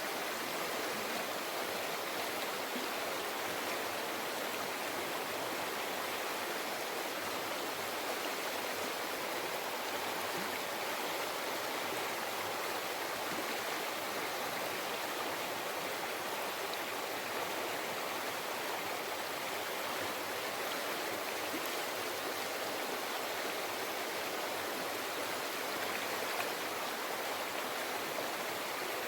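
A river or mountain stream flowing over rocks: a steady, even rush of water that does not change.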